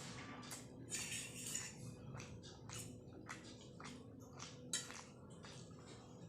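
Person eating Maggi instant noodles close to the microphone: a run of short chewing and slurping sounds, about two or three a second, with one sharper click a little before five seconds in.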